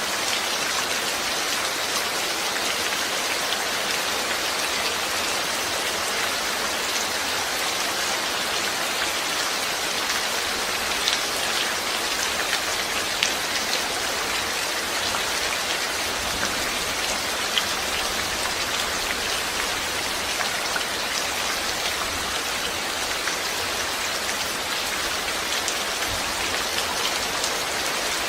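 Steady rain falling, with a dense hiss and scattered individual drops ticking on a surface.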